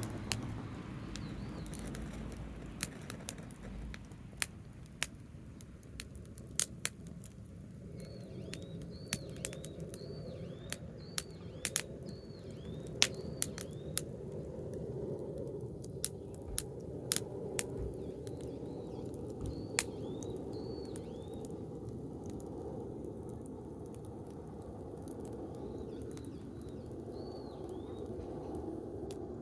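Campfire of branches burning, crackling with frequent sharp pops over a steady low rush of flame. A series of short high chirps comes and goes in the background.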